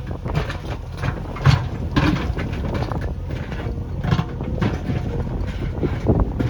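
A JCB backhoe loader's diesel engine running steadily, with irregular clanks and knocks from the working machine.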